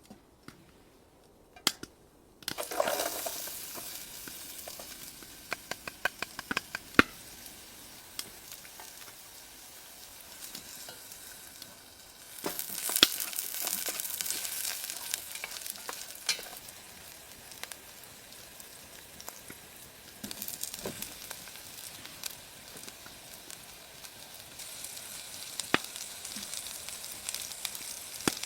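Food frying in a hot pan, sizzling with many small crackling pops. The sizzle starts suddenly a couple of seconds in, after a few light clicks, and grows louder again about halfway through.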